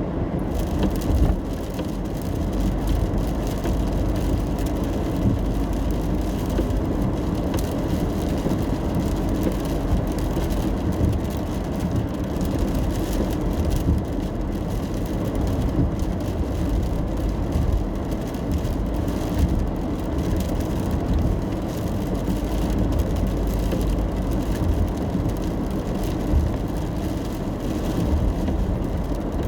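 Steady road noise inside a moving car driving in the rain: a low, even rumble of tyres and engine, with rain pattering faintly on the car.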